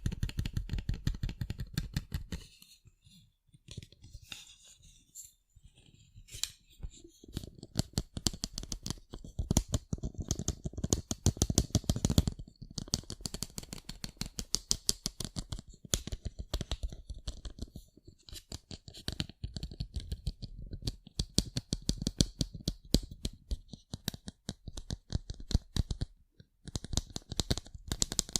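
Rapid tapping on sunglasses: fast flurries of sharp little clicks, thinning out to a quieter, sparser patch a few seconds in before picking up again.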